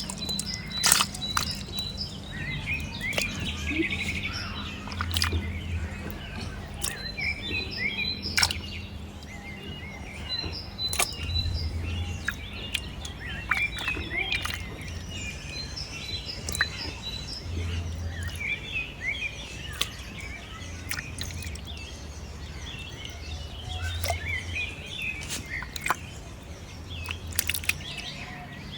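Small birds chirping and calling throughout, over a steady low hum, with scattered sharp clicks.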